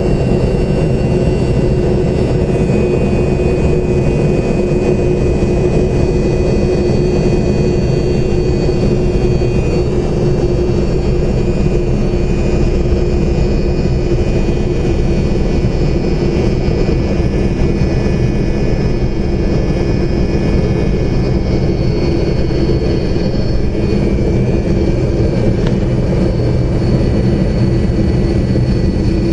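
Tupolev Tu-134's two rear-mounted Soloviev D-30 turbofans at take-off power, heard from inside the passenger cabin: steady loud jet engine noise with several held whining tones that shift slightly in pitch.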